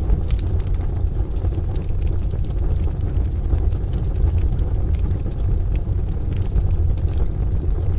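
Wood fire crackling in a stove, with sharp, irregular pops, over steady rain and a continuous low rumble.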